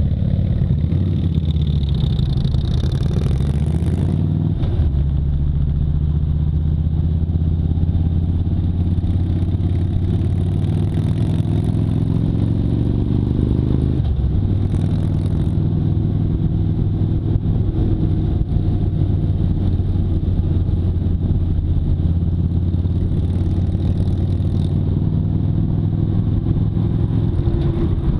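Motorcycle engine running under way, its pitch climbing as it accelerates and then dropping abruptly about halfway through.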